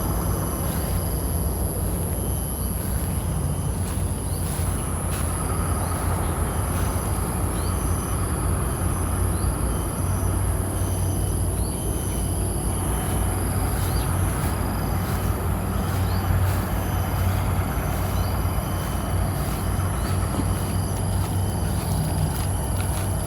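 Steady outdoor background rumble, with a constant thin high tone and many short, high, rising chirps repeating throughout.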